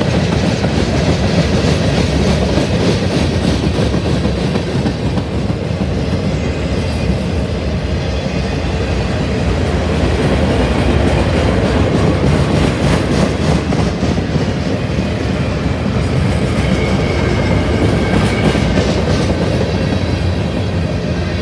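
Freight train cars rolling past at close range, a steady loud rumble of wheels on rail with a repeated clickety-clack of wheels over the rail joints.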